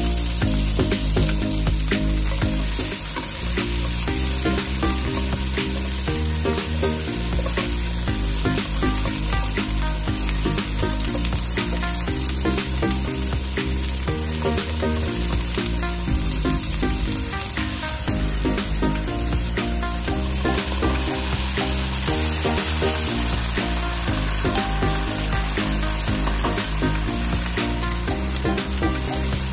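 Fried tofu cubes, celery and onion sizzling in a frying pan as they are stirred with a silicone spoon, with background music throughout.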